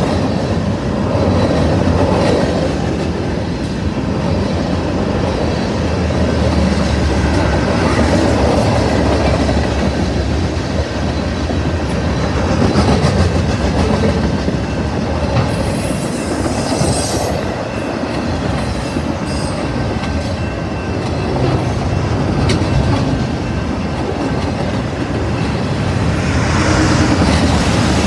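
Freight train of covered hopper and autorack cars rolling past close by, a loud, steady rumble and clatter of steel wheels on the rails.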